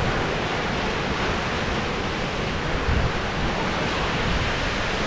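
Ocean surf washing steadily onto a rocky shore, a continuous rushing hiss, with wind buffeting the microphone.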